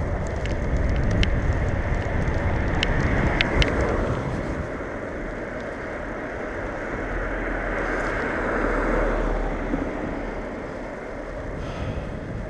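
Riding noise of a hybrid bicycle on a city street: a steady rushing of wind and road, heavier and rumbling for the first four seconds with a few light clicks, then lighter, with a swell near the nine-second mark.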